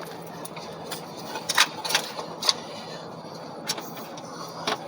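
Several sharp clicks and knocks as the engine's valve cover is set down and seated onto the cylinder head, the loudest cluster about one and a half to two and a half seconds in and two fainter knocks near the end, over a steady low hum.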